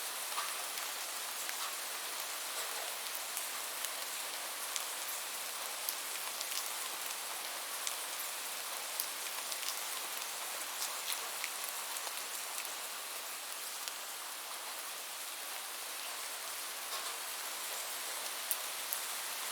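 Steady rain falling, an even hiss with many scattered sharp ticks of individual drops landing.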